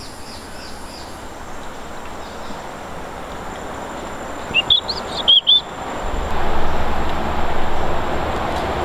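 A few sharp, high chirps of a bird call come about four and a half to five and a half seconds in, with fainter chirps near the start, over forest background noise. From about six seconds a steady rushing noise with a low rumble comes up.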